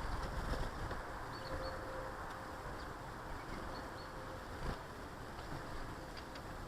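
Steady outdoor background noise with a few faint, short high chirps from small garden birds scattered through it.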